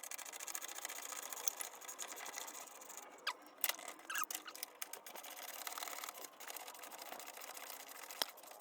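Faint, rapid clicking of a ratchet wrench working the 10 mm bolts of a battery holder, with a few short squeaks a few seconds in.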